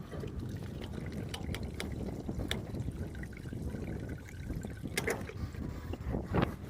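Fuel trickling from a Cessna 172E's sump drain into a sampler cup during the pre-flight fuel check, with a few sharp clicks and wind rumble on the microphone.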